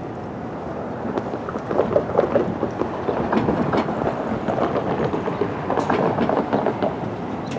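A rail vehicle rolling past, its wheels clacking over the rail joints in a string of uneven clicks over a steady rumble, louder from about a second in.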